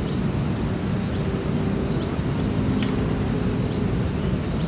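Small birds chirping repeatedly, short high notes that each fall in pitch, over a steady background of outdoor noise.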